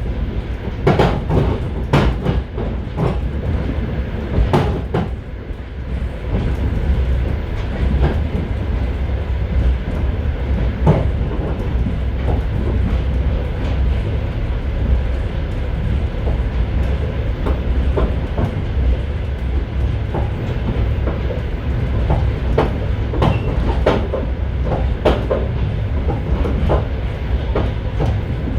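Steady low rumble inside the vestibule of a moving passenger railway car, with irregular sharp wheel clacks over rail joints. The clacks come in clusters near the start and again near the end.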